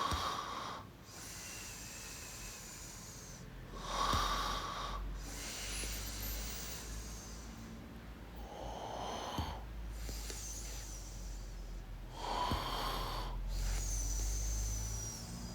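A person snoring softly and steadily, one breathy snore about every four seconds.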